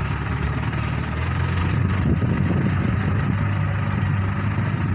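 Heavy diesel engine of a dump truck running steadily at a low idle, getting a little louder about two seconds in.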